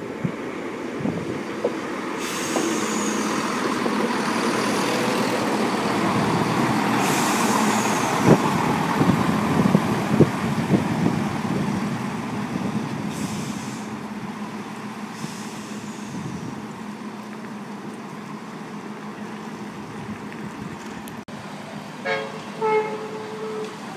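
Greater Anglia Class 170 diesel multiple unit running past: its engine and wheel noise swell, peak and fade away, with wheels clattering over rail joints in the loudest stretch. Near the end there are two short tones.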